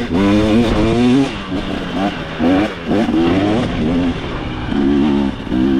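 2025 KTM 300 XC's two-stroke single-cylinder engine revving up and down repeatedly as the dirt bike is ridden up a hill, settling to a steadier pitch near the end.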